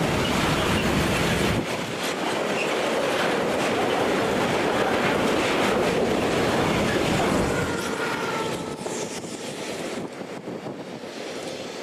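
A train running past on the rails, its wheels clattering over the track joints. The noise drops away about two-thirds of the way through as the train clears, leaving a faint wheel squeal.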